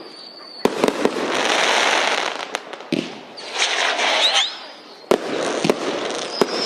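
Fireworks going off: several sharp bangs of bursting shells, each followed by a long crackling hiss, with a thin high whistle at the start.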